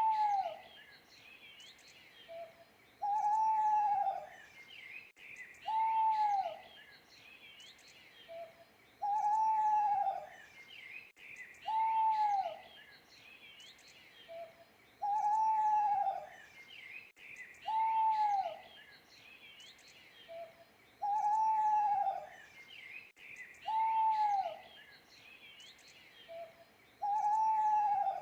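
Owl hooting in a phrase that repeats about every six seconds: a short low note, then two longer hoots that each drop in pitch at the end. Faint songbird chirps run underneath.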